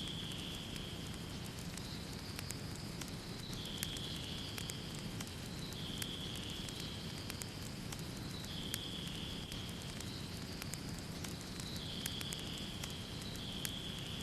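Fireplace fire crackling: a steady low rumble with frequent small sharp pops. A higher hiss comes and goes every two to three seconds.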